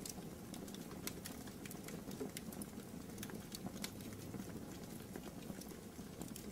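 Wood fire burning in a fireplace: a steady low rush of flames with frequent, irregular small crackles and pops.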